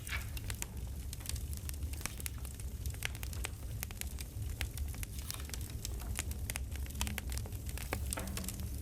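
Campfire crackling: irregular snaps and pops over a steady low rumble.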